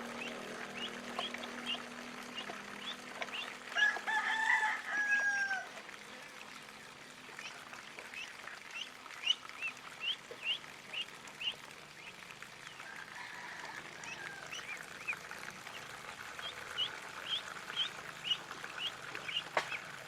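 Ducklings peeping in runs of short, high chirps, two or three a second. A single longer drawn-out bird call with a falling end comes about four seconds in.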